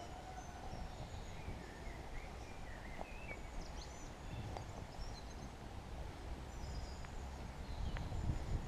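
Several small songbirds chirping and singing short, quick phrases over a steady low background rumble that grows louder near the end.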